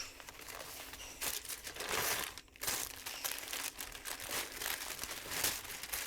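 Irregular rustling and scraping as pressure-washer parts are handled and worked into place.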